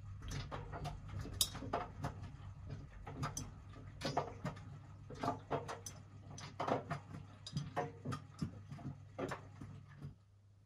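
Washing machine drum turning its load: a steady motor hum with irregular clicks and knocks as the laundry tumbles against the drum. Both stop abruptly near the end, as the drum pauses in the wash cycle.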